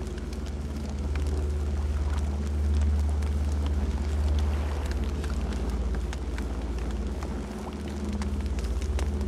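Campfire burning: a steady low rumble under frequent small crackles and pops of burning wood.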